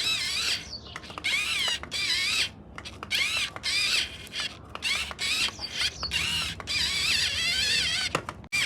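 Small electric motors and plastic gearboxes of remote-control toy vehicles whining in short runs, the pitch wavering as they speed up and slow down, with a few clicks between runs.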